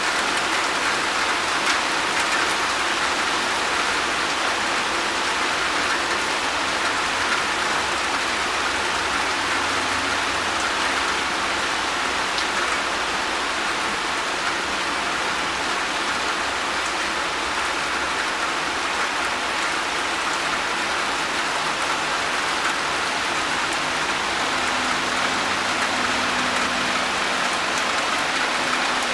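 Steady rain falling on a wet balcony and garden plants: an even hiss that holds without letup.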